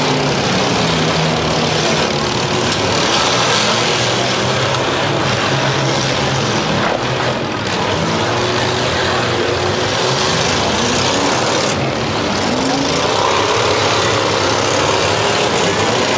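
Several demolition derby cars' engines running and revving, their pitches rising and falling as the drivers push and ram.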